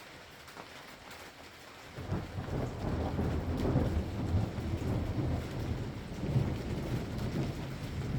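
Thunder rumbling during steady rain: after about two seconds of soft rain, a low rolling rumble starts suddenly and rolls on to the end.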